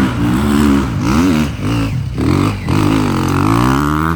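Motocross bike engines revving, their pitch rising and falling several times as the throttle is opened and closed.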